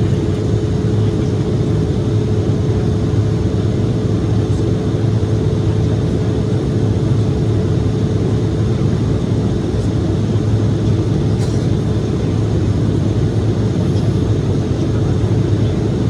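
Cabin noise of an Embraer E-175 jet in flight: a steady drone of its CF34 turbofan engines and rushing air, with a constant hum above it.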